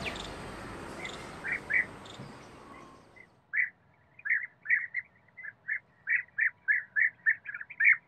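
Bee-eaters calling: a few faint short chirps at first, then from about three and a half seconds in a quick run of short, repeated calls, several a second, all on much the same pitch.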